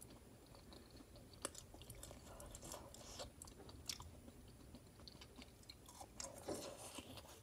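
Faint chewing of a crisp homemade French fry, one frozen before frying, with irregular small crunches as it is bitten and eaten.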